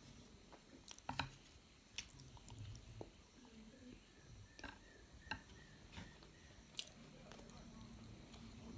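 Faint chewing of stir-fried chow noodles, with a few short clicks scattered through, fitting chopsticks tapping the plate.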